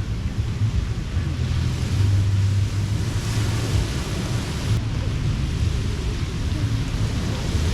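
Surf washing onto the beach, a steady hiss that swells about three seconds in and ebbs again, over a constant low rumble.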